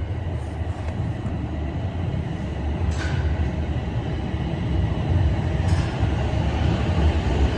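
TTC Toronto Rocket subway train running through the station, a steady low rumble growing slightly louder, with two brief high-pitched squeals, about three seconds in and near six seconds.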